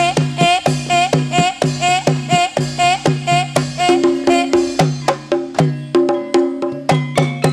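Banyumasan gending ebeg music played by a Javanese gamelan ensemble: a steady beat of drum and pitched percussion strokes with held metallic tones, the melody shifting to a new pattern about four seconds in.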